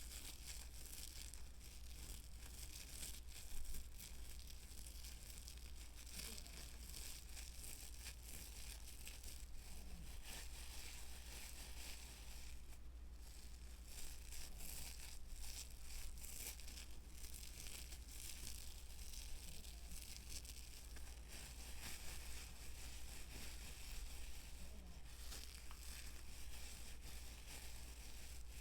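Close-miked ASMR trigger sounds: a dense, crisp scratching and crinkling made of many small strokes, with two brief lulls. A low steady hum runs underneath.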